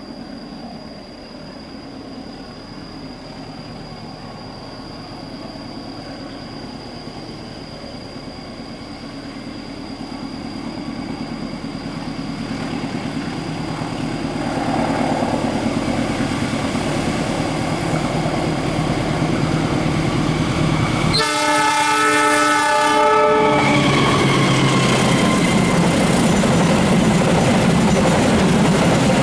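Progo passenger train approaching, its rumble on the rails growing steadily louder, then the locomotive horn sounds one steady chord for about two seconds some twenty seconds in, followed by the loud continuous rumble of the train passing close by.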